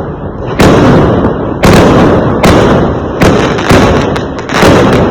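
Fireworks exploding in quick succession: about six loud bangs in five seconds, each with a rumbling tail that runs into the next.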